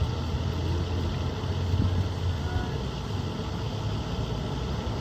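A vehicle engine running steadily at idle, a low rumble that eases a little about halfway through, over the hum of street traffic.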